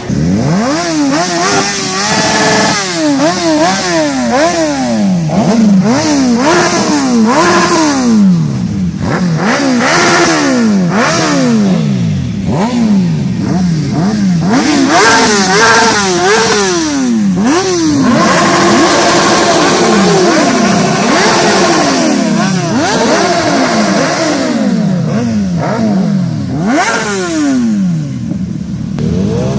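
Superbike engine revving hard over and over, its pitch climbing quickly and then dropping back about once a second as the throttle is opened and closed.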